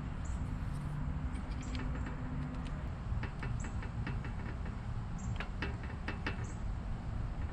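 A steady low mechanical rumble with a faint hum, and scattered light clicks and taps that come more often after about three seconds.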